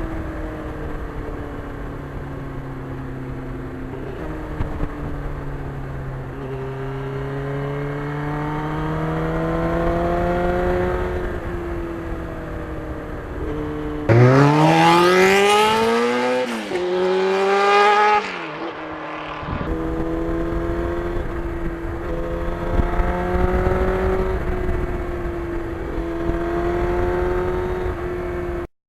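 1991 Yamaha FZR inline-four motorcycle engine under way, its pitch drifting up and down with road speed, over wind rumble. About halfway through it revs hard twice in quick rising sweeps, then settles back to cruising.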